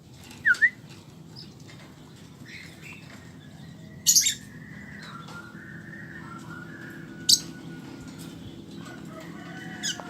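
Lovebird giving short, shrill chirps: two quick ones about half a second in, a longer burst about four seconds in, and single sharp calls near seven and ten seconds. Softer, thinner bird calls and a steady low background run underneath.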